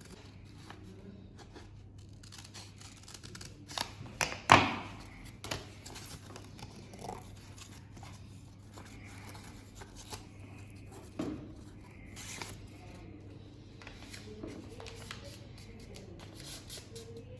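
Scissors cutting paper in scattered snips, among small rustles and handling knocks; the loudest snips come about four seconds in.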